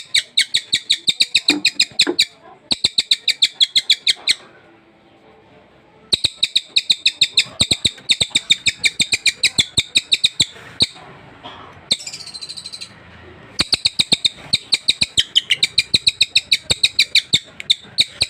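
Sultan tit singing, a rapid run of sharp, loud repeated notes, many a second, in long bursts with short breaks and a brief different call in the middle.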